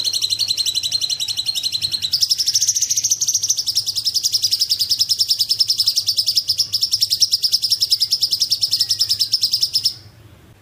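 A cungkok bird singing one long, very fast, high trill that steps up in pitch about two seconds in and cuts off near the end. A faint steady low hum lies underneath.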